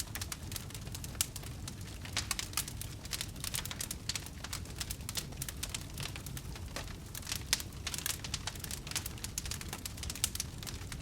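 Wood fire crackling: irregular sharp pops and snaps of burning logs over a low, steady rumble of the flames.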